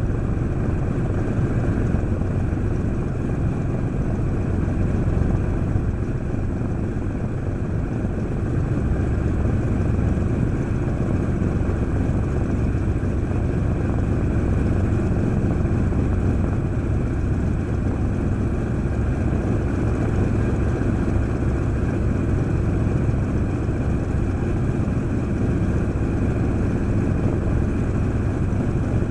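Douglas A-26B Invader's right-hand Pratt & Whitney R-2800 radial engine running steadily on a ground run, with all cylinders firing.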